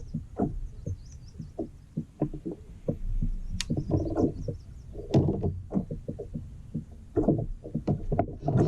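Irregular knocks and bumps on a fishing kayak, the sounds of gear and movement against the hull, coming in small clusters about four and five seconds in.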